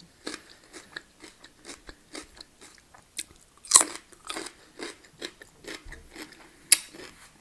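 Raw celery stick being bitten and chewed close to the microphone: a run of crisp crunches, with two louder crunching bites about four and seven seconds in.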